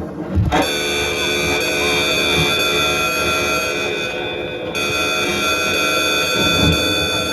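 A steady, loud droning tone with many overtones, held for about seven seconds, its upper part dropping out briefly around the middle.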